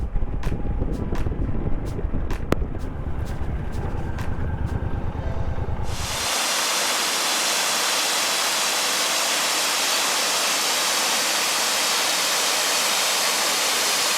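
Suzuki cruiser motorcycle riding, its low rumble mixed with wind on the microphone and scattered ticks. About six seconds in it cuts abruptly to a steady, even hiss with no rumble beneath it.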